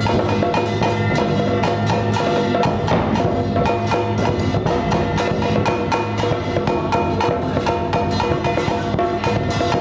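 Vietnamese ceremonial music: a wood block struck in a fast, even beat, about four to five strokes a second, with drums and sustained pitched instruments.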